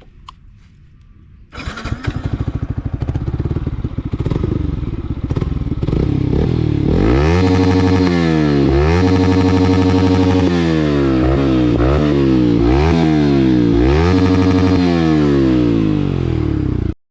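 Yamaha R15 V3's single-cylinder engine through an aftermarket Akrapovič slip-on exhaust, revved on the stand. A low rumble jumps to loud running about a second and a half in, then from about six seconds the throttle is blipped again and again, the pitch rising and falling with each rev, before the sound cuts off suddenly near the end.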